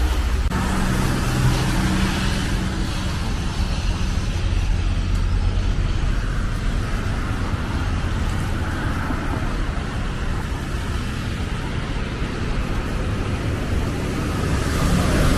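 Road traffic on a snowy street: cars driving past with engine hum and tyre noise. It is louder in the first few seconds, eases off, and swells again near the end as another vehicle approaches.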